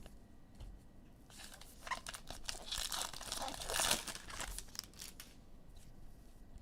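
Foil trading-card pack wrapper being torn open and crinkled by hand. A crackly rustle builds about a second in and is loudest in the middle, then dies down.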